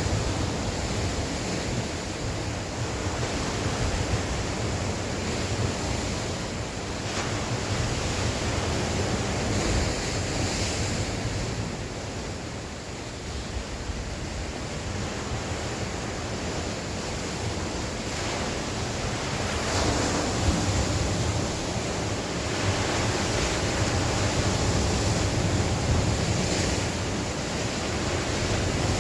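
Sea waves washing ashore, swelling and easing every few seconds, with wind rumbling on the microphone.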